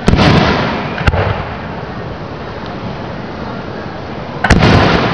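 Aerial firework shells bursting: a loud boom just after the start that trails off over about a second, a sharp crack about a second in, and another loud boom near the end.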